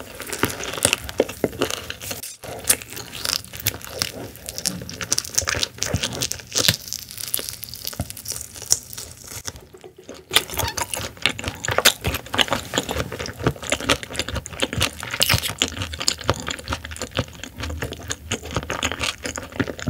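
Close-miked chewing of raw silver pomfret (butterfish) sashimi: a dense run of wet clicks and smacks, with short pauses about two seconds in and again about ten seconds in.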